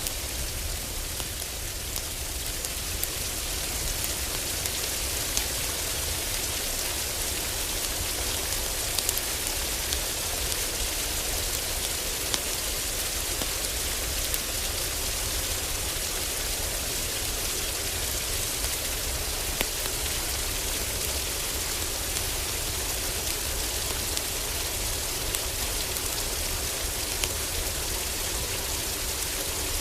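Heavy rain falling steadily on a cabin roof, with scattered sharp ticks of drops or fire crackle and a steady low rumble underneath.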